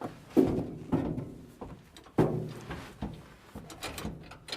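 A few sharp knocks and clunks, three loud ones in the first two and a half seconds, then lighter clicks, from hands-on work on the truck with the engine not running.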